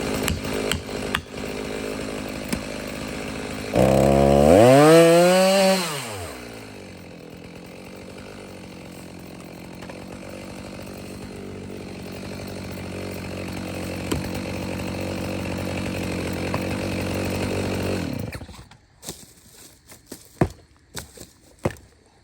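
Two-stroke chainsaw running, revved hard for about two seconds around four seconds in, its pitch rising then sagging, before it drops back to a steady idle. Near the end the engine cuts off, followed by a few light knocks and clicks.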